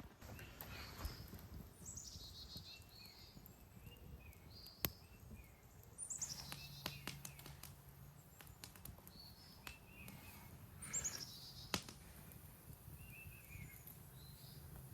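Songbirds singing in woodland: three fast descending trills and many short chirps, with a few sharp clicks.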